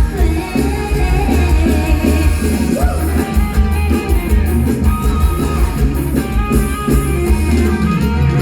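Live mor lam band music: a heavy, pulsing bass and drum beat with guitar and a bending melody line over it.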